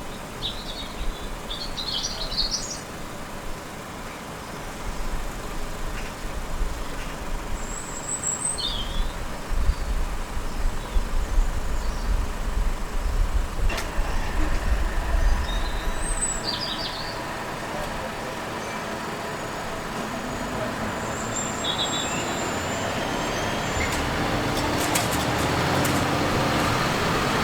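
Road traffic rumbling at a railway level crossing, with birds chirping briefly several times. A vehicle noise builds steadily louder over the last several seconds.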